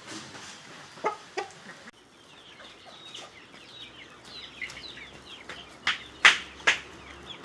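Parrot Beak Aseel chickens clucking, with many small high chirps. Three loud, short calls come close together near the end.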